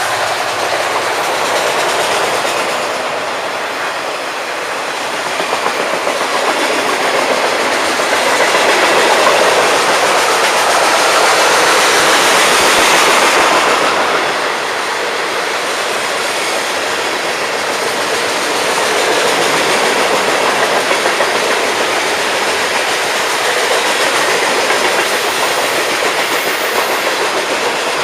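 Long FEC freight train's cars rolling past on the rails, a steady loud rolling noise that swells around the middle and eases off again.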